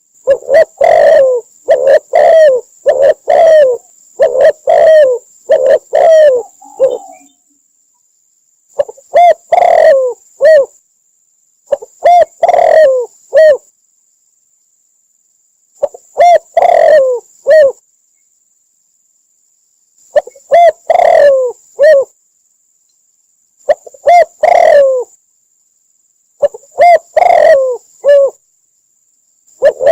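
Spotted dove cooing loudly: a run of about seven coos, then short phrases of three or four coos repeated every few seconds with silent pauses between.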